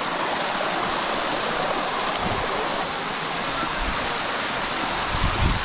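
Waterfall water rushing steadily over the rock cascade close by, a constant even rush.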